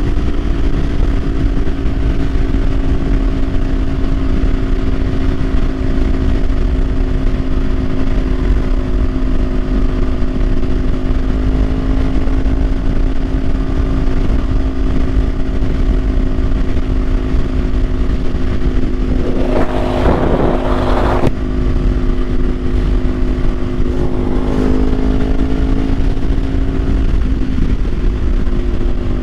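Kawasaki Ninja 500's parallel-twin engine running at a steady cruise, its pitch nearly constant, under a heavy low rumble of wind. About twenty seconds in, a loud rushing noise lasts a couple of seconds, with a fainter one a few seconds later.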